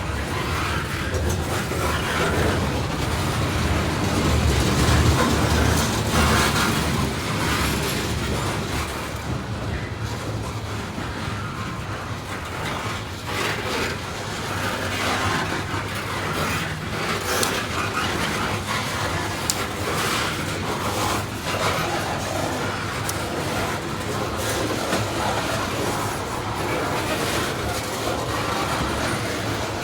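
Freight train cars rolling past, a steady rumble of wheels on rail with scattered clicks and knocks throughout.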